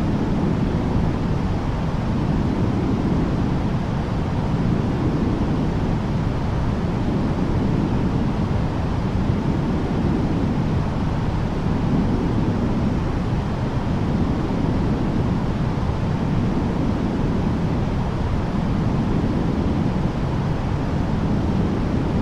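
Womb-sound white noise: a steady, deep, muffled low rumble of noise with gentle slow swells every few seconds.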